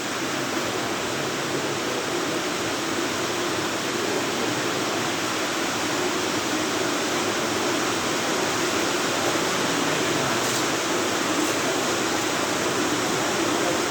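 Steady rain falling, a dense even hiss that grows slightly louder.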